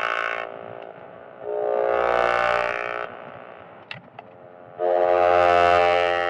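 Synthesizer music: sustained chords held for a second or more at a time, separated by short gaps, with a couple of brief clicks between them.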